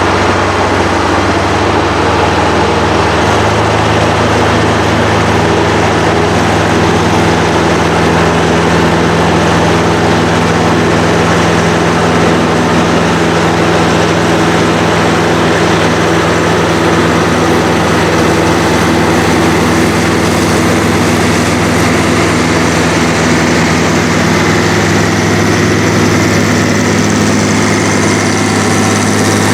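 Heavy diesel engines of a tractor and crawler running steadily under load while pulling a deep plow, with a slight change in engine pitch near the end.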